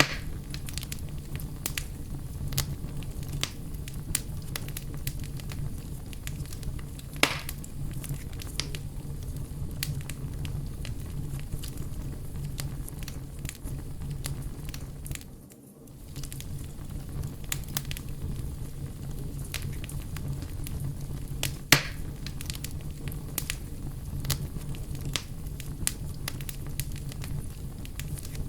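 Wood campfire crackling steadily with many small snaps, and two louder pops about a quarter and about three quarters of the way through. The sound briefly dips away about halfway through.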